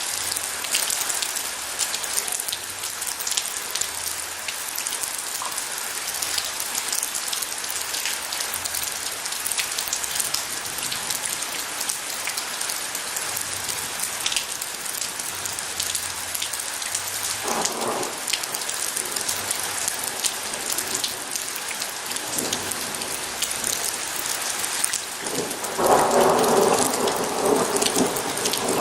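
Steady heavy rain hissing, with the fine patter of drops striking a surface. A brief swell of thunder comes about two-thirds of the way through, and a louder, longer roll of thunder builds near the end.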